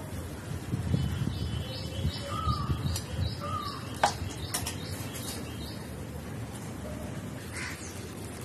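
Birds calling: a quick run of short high chirps, about three a second, and two short falling calls lower down, over a low rumbling background. A sharp click comes about four seconds in.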